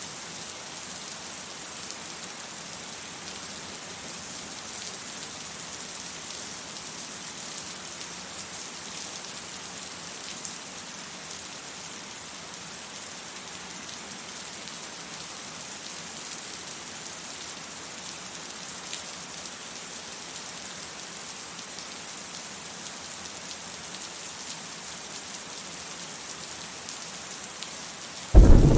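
Steady rain falling, an even hiss. Right at the end a sudden loud clap of thunder breaks in.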